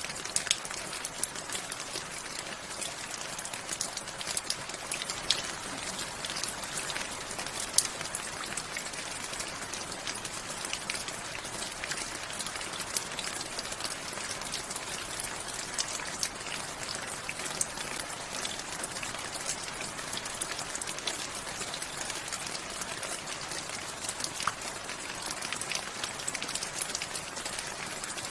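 Steady rain falling, a continuous hiss with many individual drops pattering and ticking on a surface.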